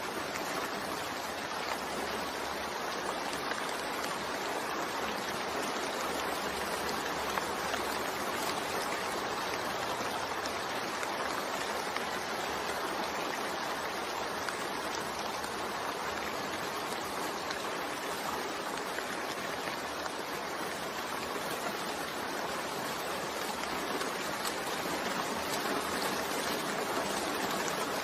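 Steady rain falling, an even, continuous hiss with no change in level.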